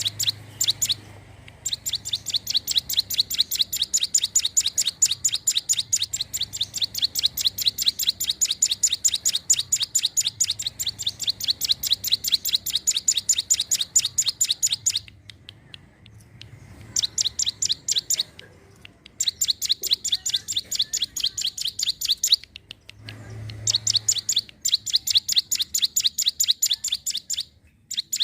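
Ciblek gunung, a mountain prinia, calling in long bouts of rapid, evenly repeated high chirps, about five a second, broken by a few short pauses.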